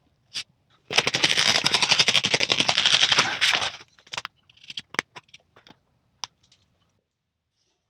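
A rapid run of sharp crackling clicks lasting about three seconds, followed by a few scattered taps and clicks of materials being handled.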